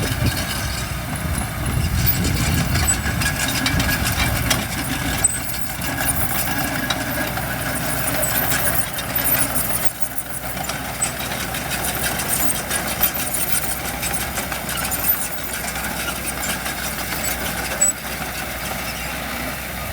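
Diesel engines of heavy earthmoving machinery, dump trucks and a bulldozer, running steadily. The rumble is heaviest in the first few seconds and eases briefly about halfway, with a couple of short sharp clanks.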